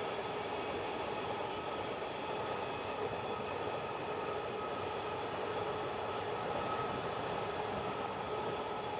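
Empty iron-ore wagons of a very long freight train rolling past on the rails: a steady rolling noise with faint held tones above it.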